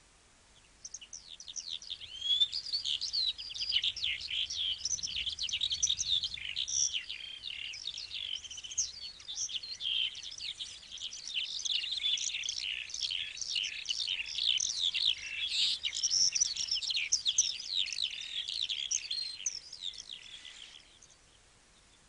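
A flock of small birds chirping, with many short, high calls crowding over one another. It starts about a second in and cuts off abruptly near the end.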